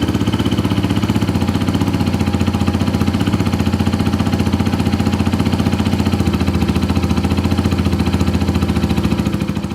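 Suzuki TU250X single-cylinder motorcycle engine idling steadily, its exhaust giving a rapid, even train of pulses; the sound fades out near the end.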